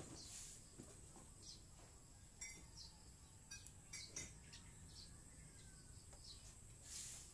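Faint outdoor ambience: scattered short bird chirps over a steady high hiss, with a few soft clicks about two and a half and four seconds in.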